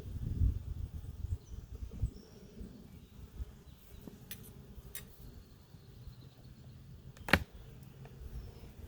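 Sounds of handling an open honey bee hive: a low knocking rumble at the start, then a few sharp clicks, the sharpest about seven seconds in, over a low hum of bees. Faint bird chirps sound in the background.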